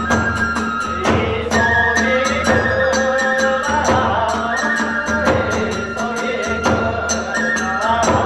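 Kagura music: small hand cymbals clashing in a fast, even rhythm over drums, with a high flute melody holding and sliding between notes.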